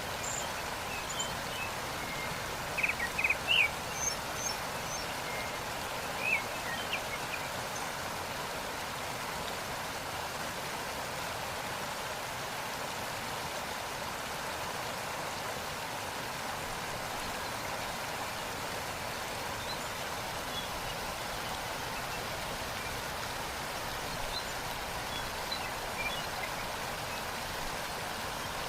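Waterfall rushing steadily. A few short bird chirps come over it in the first several seconds, with fainter ones near the end.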